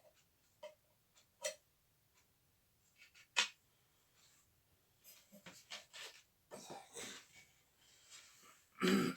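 Scattered clicks and scraping of vacuum-cleaner parts being handled during disassembly, with a busier stretch of rustling in the second half. A loud throat clearing comes just before the end.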